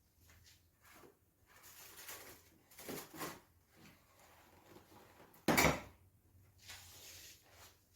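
Handling noises while cleaning a cooker: soft scraping and rubbing bursts, and one loud clunk about five and a half seconds in.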